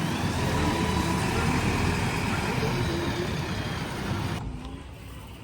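JCB 3DX Plus backhoe loader's diesel engine running steadily, growing gradually fainter, then dropping away abruptly near the end.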